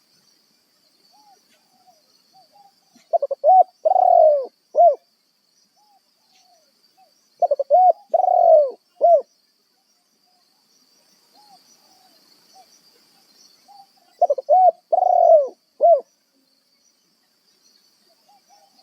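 Decoy spotted dove (tekukur) cooing to call wild doves: three loud cooing phrases about five seconds apart, each a few quick notes running into a longer coo. Fainter calls sound between the phrases over a steady thin high hum.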